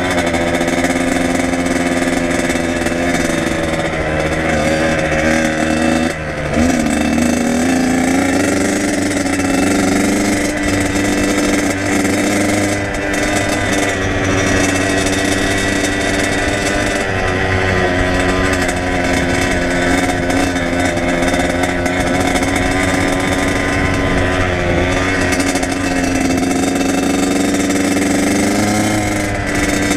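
Kawasaki KX100 two-stroke single-cylinder dirt bike engine running steadily while riding, its pitch holding mostly level; about six seconds in the revs drop briefly and then climb back up, as with a throttle-off or gear change.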